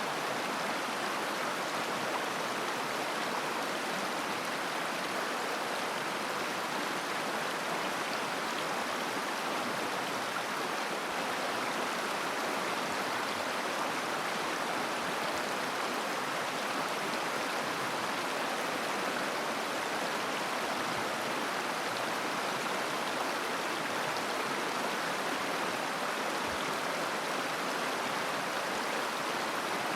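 River water flowing and babbling over stones, a steady rushing with no breaks.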